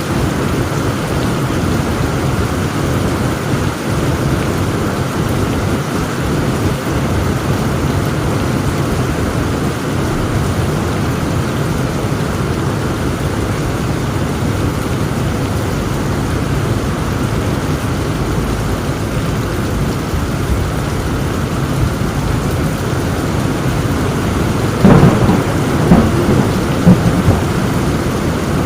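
Heavy rain falling steadily under a continuous low thunder rumble. About 25 seconds in, a close thunderclap cracks sharply, crackling in a few loud strokes over about two seconds.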